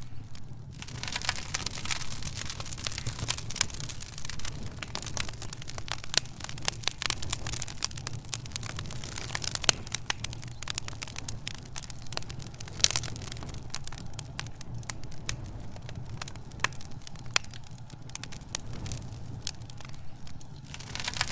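Wood fire crackling in a fireplace: a dense run of irregular snaps and pops, a few sharper ones standing out, over a steady low rumble.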